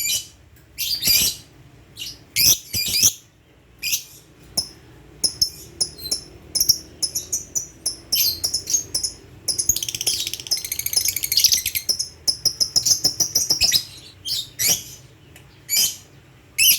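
Pet lovebird chirping: a run of short, high-pitched chirps and squeaks, with a rapid, buzzy chattering trill lasting about two seconds starting about ten seconds in.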